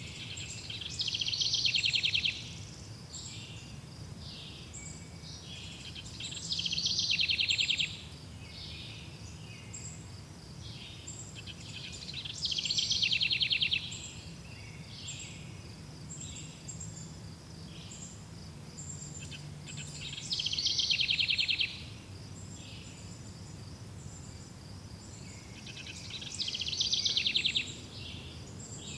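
Forest ambience: a songbird sings a short, rapid trill five times, about every six seconds, with short high chirps between the songs over a steady low rumble.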